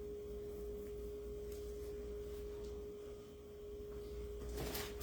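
A steady, faint single-pitched tone, like an electrical whine, over a low background hum, with a couple of faint ticks.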